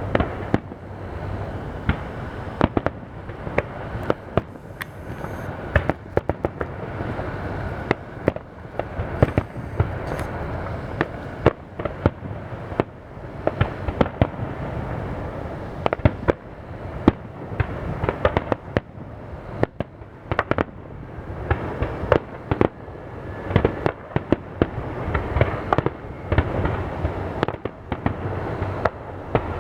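Aerial fireworks bursting in a dense, continuous barrage: many sharp bangs, several a second, over a constant din of further bursts and echoes.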